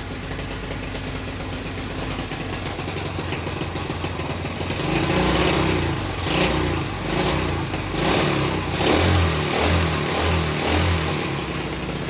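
Pit bike engine running with the muffler off, idling steadily, then blipped with a run of quick throttle revs in the second half before dropping back to idle. The fuel-air mixture is still to be adjusted.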